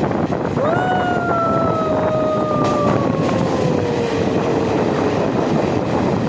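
Passenger express train running, with wind on the microphone; about half a second in, the train's horn sounds one long note for nearly five seconds, its pitch sagging slowly.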